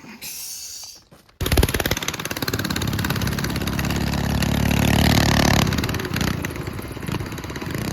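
Coleman mini bike's small engine running hard with rapid firing pulses. It comes in suddenly about a second and a half in, revs up to its loudest around five seconds, then eases back.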